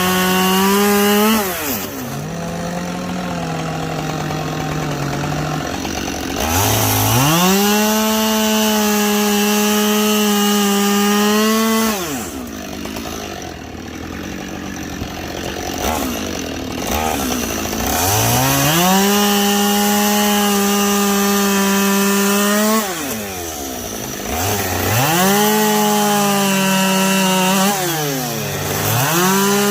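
Two-stroke chainsaw bucking logs. It runs at high revs for several seconds at a time and drops back toward idle between cuts, about four times, with a longer idle stretch near the middle.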